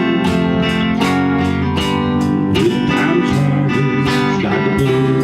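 A band playing an instrumental passage led by guitars, with a steady beat and no singing.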